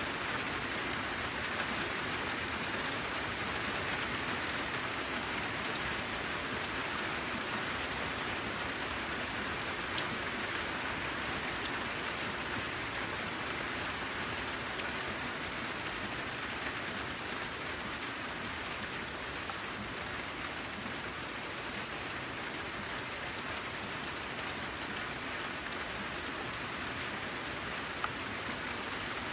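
Steady rain falling, with scattered individual drops tapping now and then.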